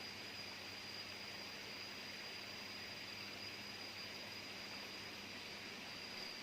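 Jungle insects, such as cicadas, with a faint steady high-pitched whine over a soft hiss.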